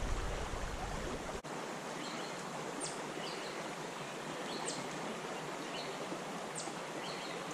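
Creek water running steadily, with a bird repeating a short high call, a quick falling note followed by a lower one, about every two seconds.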